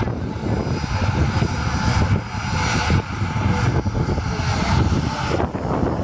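Cessna 172 single-engine light aircraft, its piston engine and propeller running steadily.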